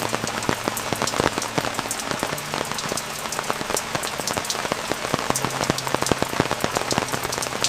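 Steady heavy rain with many sharp drop hits on a nearby surface. It starts and stops abruptly.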